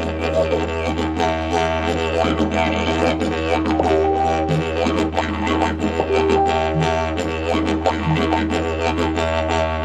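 Didgeridoo in the key of E playing a steady low drone, with overtones above it that shift and wander as the player shapes the sound, and a few short accents along the way.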